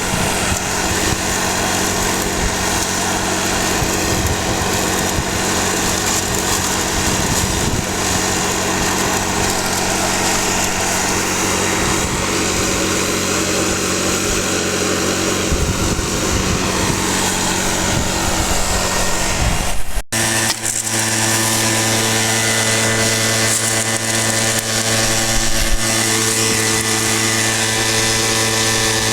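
Small gasoline engine running steadily, as on a gold prospecting dry washer's blower. About two-thirds of the way through it breaks off sharply and carries on with a steadier, lower hum.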